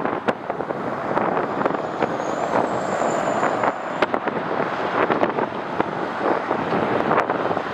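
Strong wind buffeting the microphone: a steady rushing noise broken by many sharp pops, with a faint high whine for about two seconds near the middle.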